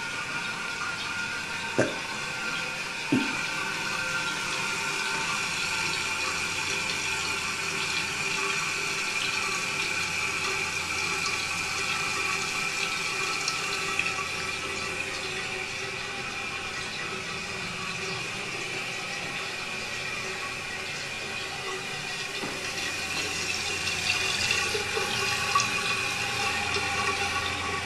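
A 1983 American Standard Cadet toilet tank refilling through its fill valve: a steady hiss of running water with a faint steady whistle. Two brief knocks come about two and three seconds in.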